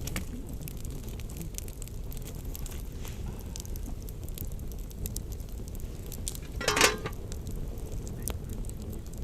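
Campfire burning with scattered crackles and pops over a steady low rumble. One brief pitched sound about seven seconds in stands out as the loudest moment.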